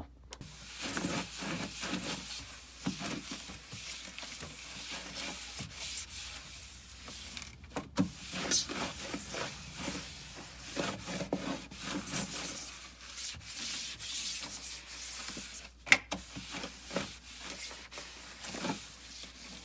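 A refrigerator shelf being wiped and scrubbed by hand to lift dirt loosened by a soaking cleaner: uneven back-and-forth rubbing, with a couple of sharp knocks.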